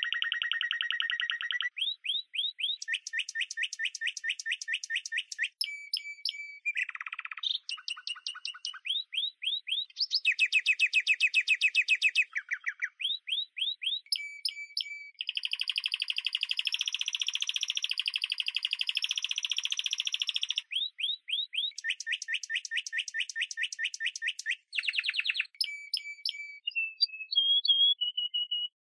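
A songbird singing a long, continuous song of fast trills and rapidly repeated chirps, switching to a new phrase every second or two. It stops abruptly near the end.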